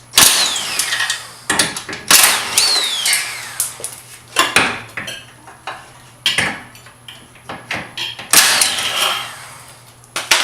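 A power tool run in several short, loud bursts, a couple of them followed by a falling whine as the motor spins down, while it takes out the bolts holding the car's crash support.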